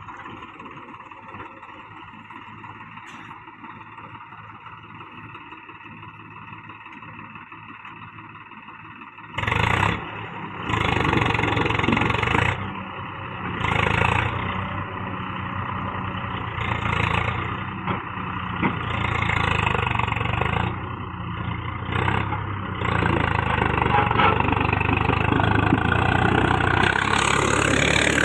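Tractor diesel engine running at low revs, then revved hard about nine seconds in, the engine note surging and easing repeatedly.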